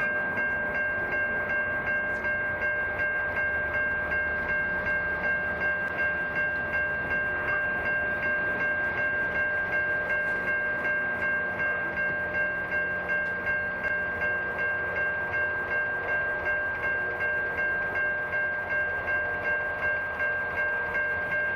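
Level crossing warning bell ringing steadily, a fixed ringing tone struck about three times a second.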